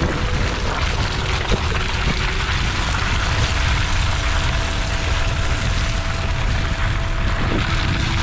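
Strong wind rushing and buffeting against the microphone, a steady loud roar with heavy low rumble.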